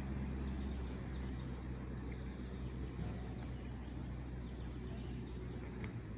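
Steady low hum of distant road traffic, with a few faint high ticks.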